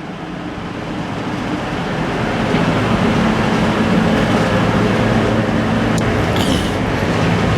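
An engine running steadily, growing gradually louder, with a low hum under a broad mechanical noise.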